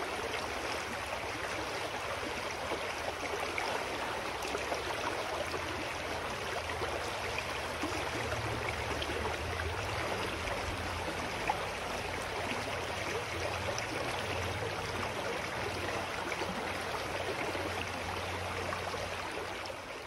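Clear mountain stream flowing steadily over rocks, an even rushing and gurgling of water, fading out in the last moment.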